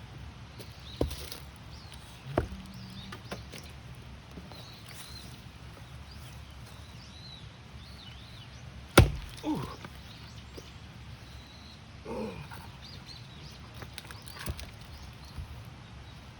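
Axe or splitting maul striking a knotty round of firewood: several separate blows spread out over the stretch, the loudest about nine seconds in, with the knotty wood not splitting. Small birds chirp faintly throughout.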